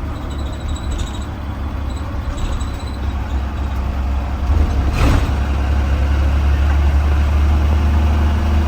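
Blue Bird Vision school bus engine and drivetrain rumbling, heard from inside the bus, getting louder about halfway through. A sharp click or knock sounds once near the middle.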